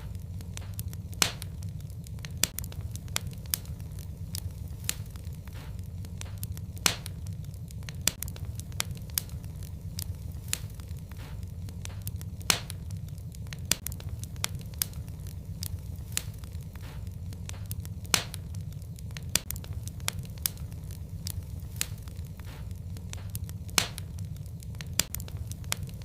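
Fireplace fire crackling: a steady low rumble of the flames with frequent sharp pops and snaps, a few of them louder than the rest.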